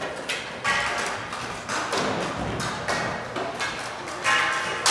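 Dek hockey play: a series of sharp knocks and thuds from sticks, the ball and the rink boards, the loudest just before the end, over a busy arena background with some music.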